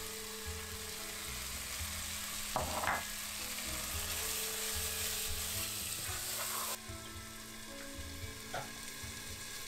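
Onion, tomato and green-chilli masala sizzling in oil in a pot while it is stirred with a wooden spatula, with a brief knock about three seconds in. About seven seconds in, the sizzle turns muffled as a glass lid goes on the pot.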